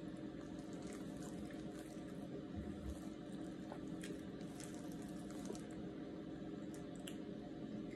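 Soft, wet chewing and mouth sounds as a person eats rotisserie chicken, with scattered small clicks, over a steady low hum.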